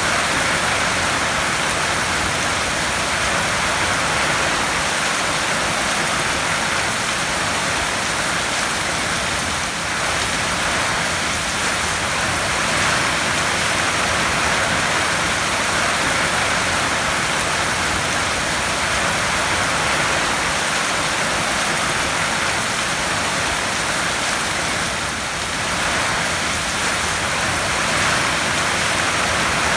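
Heavy rain drumming on a tin roof, a steady dense hiss of drops.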